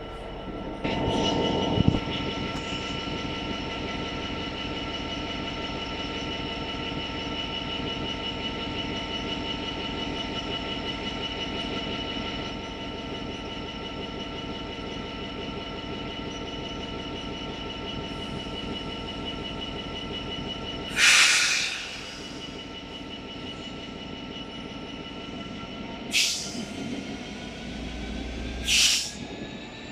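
Electric passenger train running at the platform and pulling away, its motors whining in several steady tones, with a rising whine near the end as it gathers speed. Three short, loud bursts of noise break through about two-thirds of the way in and near the end.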